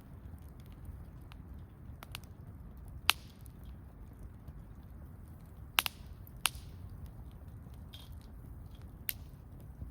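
Wood campfire crackling: a low steady sound of burning under a handful of sharp, separate pops from the burning wood, the loudest about three seconds and six seconds in.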